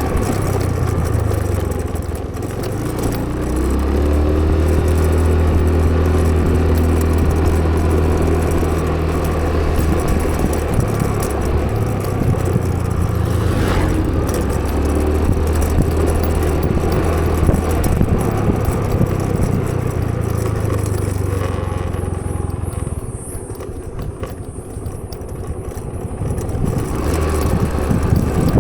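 A vehicle engine running while on the move, a steady low hum with road noise. It eases off and quietens for a few seconds near the end, then picks up again.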